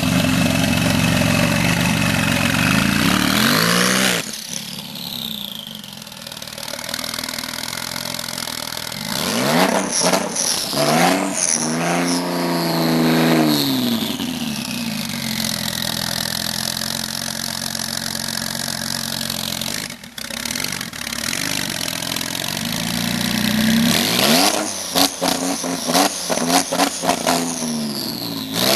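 Porsche 996 Turbo's twin-turbo flat-six, catless and straight-piped, very loud, revving up and falling back several times. Near the end comes a rapid series of sharp cracks.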